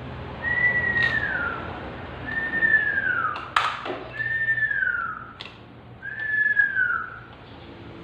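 A clear whistle repeated four times, about two seconds apart, each note about a second long and sliding down in pitch. A sharp knock sounds midway through.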